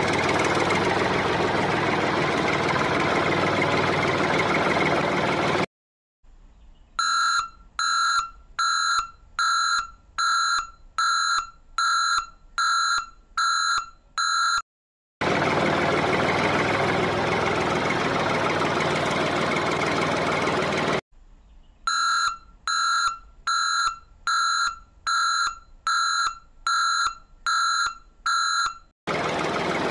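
A truck engine running steadily, broken off twice by a run of about a dozen evenly spaced high electronic beeps, about one and a half a second, like a warning beeper; the cuts between them are abrupt.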